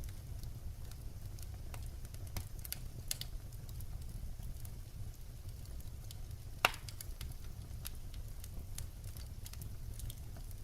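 Firewood burning: a steady low rumble with scattered crackles and snaps, and one loud pop a little past halfway.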